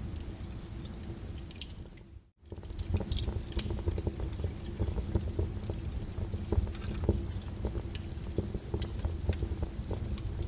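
Wood fire crackling in a fireplace: frequent sharp, irregular pops and snaps over a steady low rumble of burning. About two seconds in, the sound briefly fades almost to silence and comes back.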